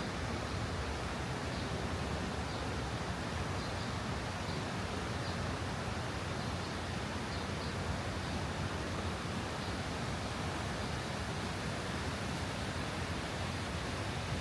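Steady, even outdoor rushing noise with no breaks, with a few faint, short high-pitched sounds scattered through it.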